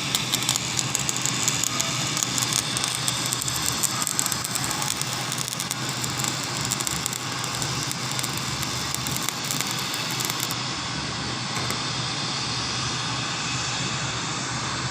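Stick (arc) welding on a base plate: the electrode's arc crackles and sizzles steadily, over a low steady hum.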